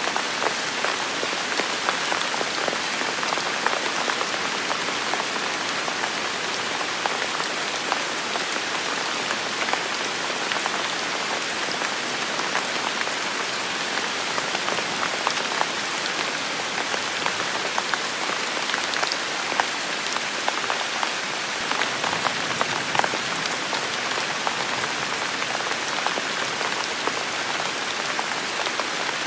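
Heavy rain falling steadily, a dense hiss of rainfall with many close drops ticking sharply on surfaces.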